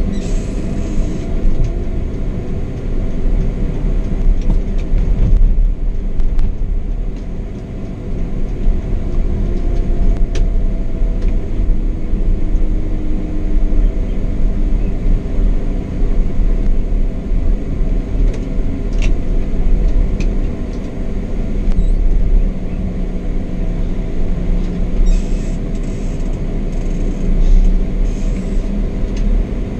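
Marcopolo 1800 DD double-decker coach on a Scania K420 chassis under way, heard from the driver's seat: a steady low rumble of road and engine noise with an engine hum that drifts gently in pitch, and a few faint clicks and rattles.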